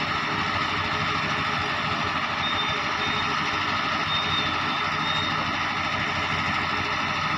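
Heavy excavator's diesel engine running steadily, with a few short high-pitched beeps in the middle.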